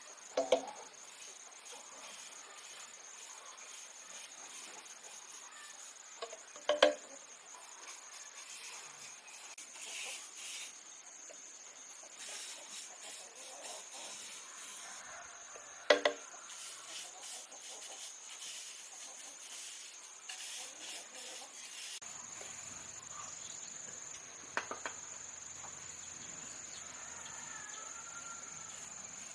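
Crickets or similar insects trilling steadily at a high pitch, with four sharp knocks spread through.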